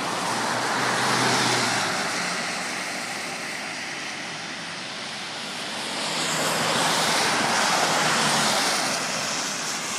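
Road traffic: cars passing on a busy road, their tyre and engine noise swelling as vehicles go by about a second in and again about seven to eight seconds in.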